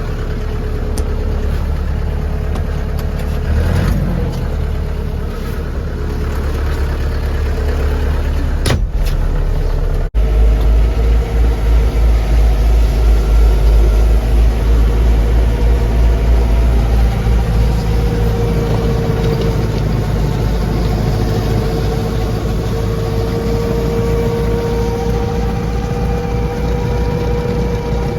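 Lovol tractor's diesel engine running, with a steady whine over it. About ten seconds in the sound breaks off abruptly and comes back louder, with a deep pulsing rumble and a whine that slowly rises in pitch.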